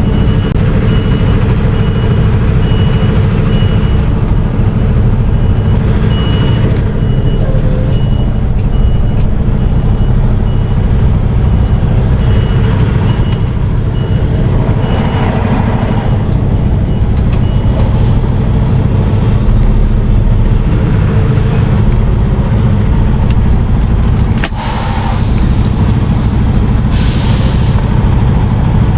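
Semi-truck's diesel engine running slowly while the truck reverses, its backup alarm beeping at a steady pace until about two-thirds of the way through. Near the end comes a sudden loud hiss of released air, typical of the air parking brake being set.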